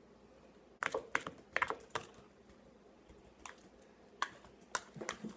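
Hands handling and poking the shampoo-and-salt slime: a quick run of sharp sticky clicks and taps about a second in, then a few single clicks.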